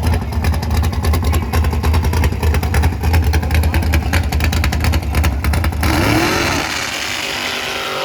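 Drag-racing engine running loud and close, with a fast, heavy pulsing beat. About six seconds in, the sound changes abruptly to a brighter, rushing engine noise with a brief rising-then-falling pitch.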